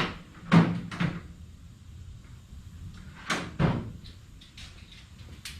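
A few sharp knocks and clatters of hard plastic pressure-washer parts being handled during assembly, in two clusters about three seconds apart.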